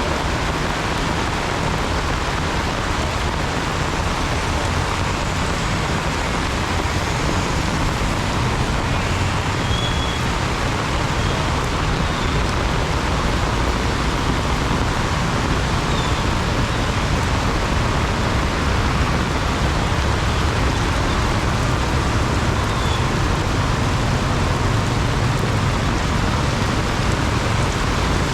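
Heavy rain pouring in a steady loud hiss, with the low rumble of road traffic underneath that swells briefly near the end.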